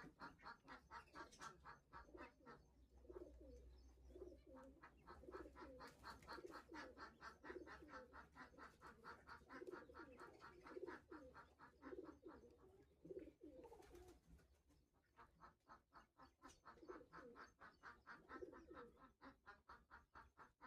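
Faint pigeon cooing, low warbling calls every second or so, over a rapid, even run of soft high peeps that goes on without a break.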